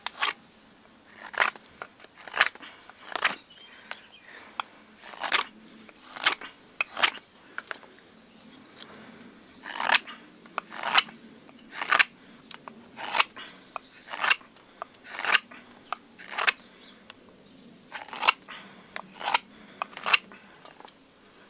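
Carving knife slicing shavings from a piece of seasoned alder for a spoon, a short crisp cut about once a second at an uneven pace, some eighteen cuts in all.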